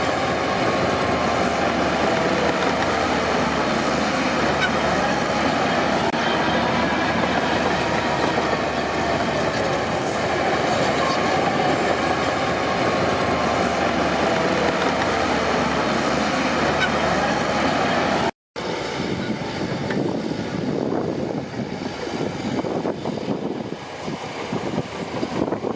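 Crawler bulldozer at work: its steel tracks clatter steadily over the engine, with wavering squeals from the track running gear. About 18 seconds in the sound cuts out for an instant, and after it is quieter and more uneven.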